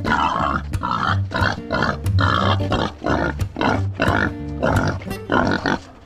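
A pig calling over and over in short harsh bursts, about two a second, with background music underneath.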